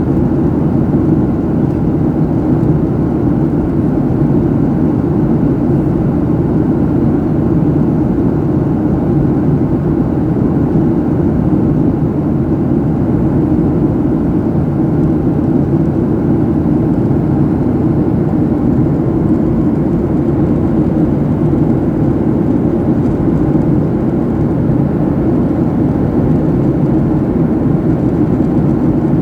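Jet airliner cabin noise in flight: a loud, steady rush of engine and airflow noise, deep and even, with no changes.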